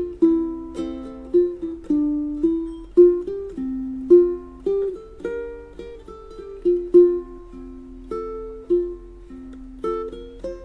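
BrightSun BS80T solid spruce tenor ukulele, plucked melody of single notes and two-note pairs at one or two notes a second, each note ringing and fading.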